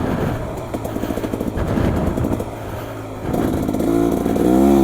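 Beta Xtrainer 300 two-stroke dirt bike engine off the throttle, running choppy and uneven for about three seconds, then opened up again with its pitch rising toward the end.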